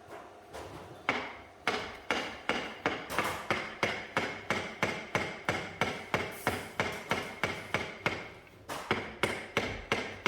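A hammer striking in a quick, steady rhythm of about three blows a second, with a ringing note through the blows and a short pause near the end.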